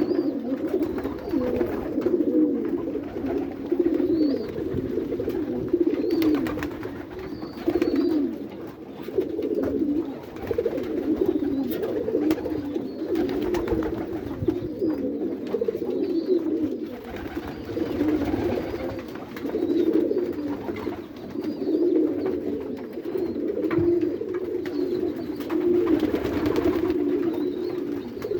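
Domestic pigeons cooing in a loft, their low, wavering coos overlapping without a break.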